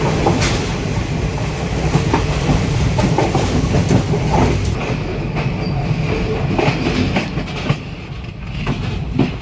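A moving train: a steady rumble with the wheels clacking over rail joints, the clacks coming unevenly and easing off for a moment near the end.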